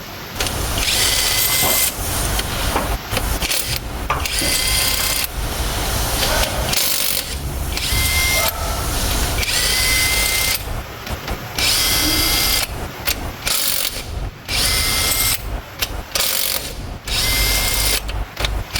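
A power tool running in many short bursts of about a second each, stopping and starting again repeatedly.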